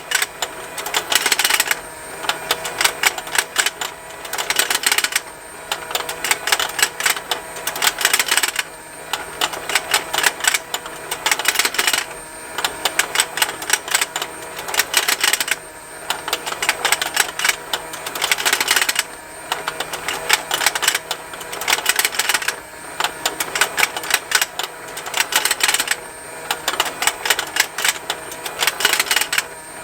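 Plastic fishing lake game toy running continuously: its small geared motor ticks rapidly while the plastic fish snap open and shut. The clicking swells and eases in clusters about every three and a half seconds, over a faint steady motor hum.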